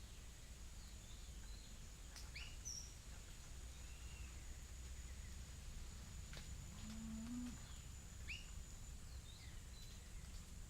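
Faint natural ambience: scattered short bird chirps and quick down-sweeping calls, over a steady high-pitched hum and a low background rumble.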